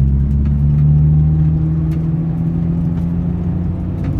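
Turbocharged 1996 Acura Integra's four-cylinder engine and road noise, heard from inside the cabin while cruising, as a steady low drone that swells slightly about a second in.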